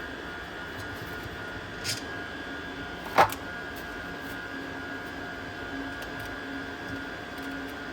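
Steady machine hum with a faint click about two seconds in and a sharp, louder knock about a second later, like a part or tool being handled.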